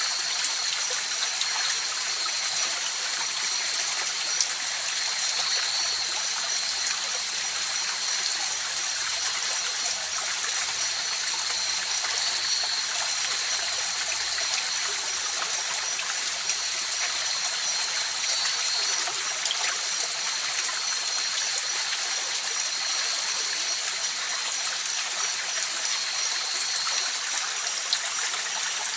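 A river or mountain stream flowing over rocks: a steady, even rush of water with no pauses. A thin, steady high-pitched tone sits above it.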